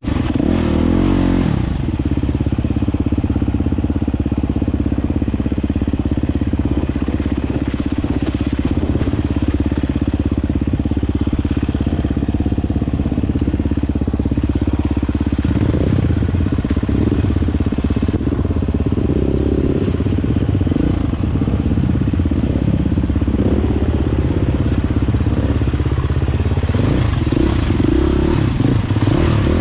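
Dirt bike engine running under way, its pitch shifting with throttle changes about halfway through and again near the end.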